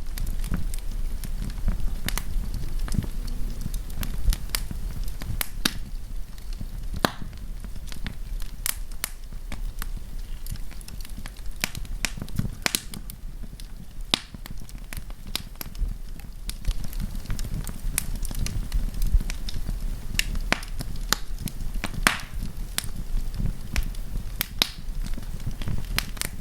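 Wood campfire burning with irregular sharp crackles and pops over a steady low rumble of flame.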